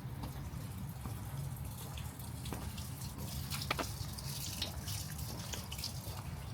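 Light rain, with scattered drops and drips ticking close by over a steady low background rumble; one drop about midway is louder than the rest.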